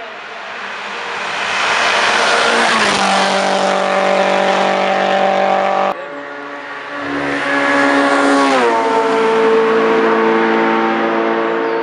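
Hillclimb race car at full throttle approaching and passing, its engine note dropping in pitch as it goes by; the sound breaks off suddenly about six seconds in, and a second race car does the same, its pitch dropping about nine seconds in.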